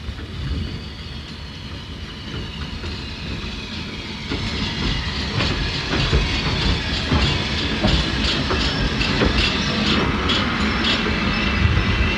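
Steam express train running along the line, its wheels clicking over the rail joints, growing louder as it comes on.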